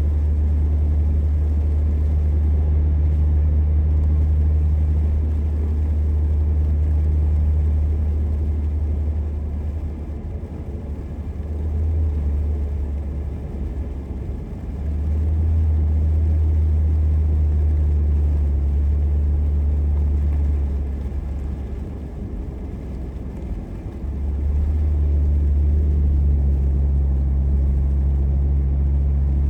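Car driving, a steady low rumble of engine and tyres on the road, easing off in level a few times.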